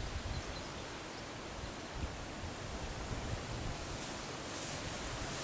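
Outdoor wind: a steady hiss of open-air ambience with irregular low gusts buffeting the microphone.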